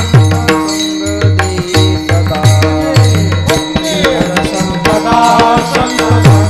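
Devotional kirtan accompaniment between sung lines: a harmonium plays the melody over a hand drum whose low strokes bend in pitch, with small hand cymbals keeping time.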